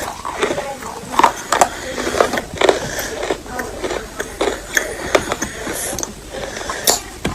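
Close-miked crunching of edible chalk or clay being bitten and chewed: an irregular run of sharp cracks and snaps, several a second.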